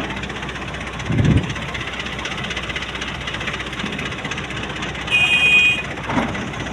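Engine of heavy earth-moving machinery running steadily, with a short low surge about a second in. A brief high beep sounds about five seconds in.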